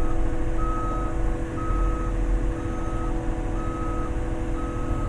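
Excavator travel alarm beeping about once a second, in half-second tones, over the low rumble of the diesel engine as the machine tracks onto the pad.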